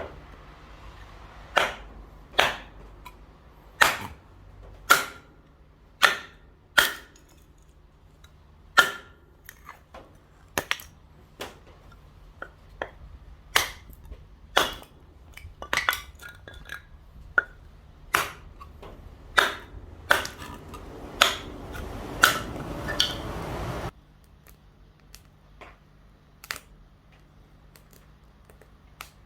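A series of sharp knocks and clinks of hard objects, roughly one a second, several with a short metallic ring. From about twenty seconds in a rising hiss builds under them, then cuts off abruptly a few seconds later.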